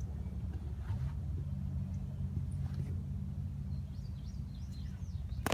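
Faint birds chirping over a steady low rumble, with a sharp click at the very end.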